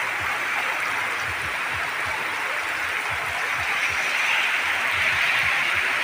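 Very heavy rain pouring steadily, a dense even hiss of downpour on the ground and roofs, with irregular low thuds underneath.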